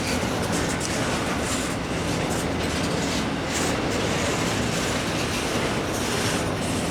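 CSX freight train cars rolling past in a steady rumble, with occasional wheel clicks over the rail joints.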